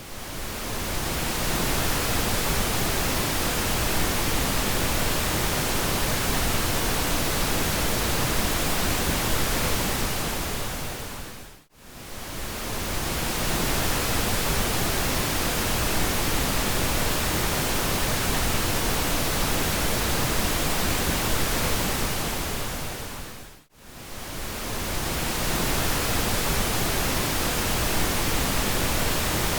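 Pink noise: a steady, even hiss reaching from deep rumble to high hiss. It fades briefly out and back in twice, about twelve seconds apart.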